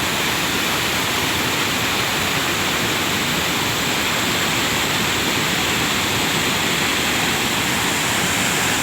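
Cold lahar (rain-triggered volcanic mudflow) rushing down a river channel: a steady, loud rush of water and debris.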